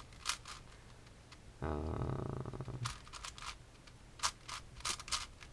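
Plastic speed cube being turned by hand in quick bursts of clicks. A brief low hum, about a second long, comes in about a second and a half in.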